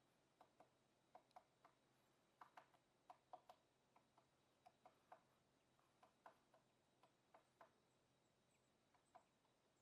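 Woodpecker pecking on wood: faint, sharp separate knocks at an irregular pace of a few a second, some in quick pairs, not a fast drumming roll.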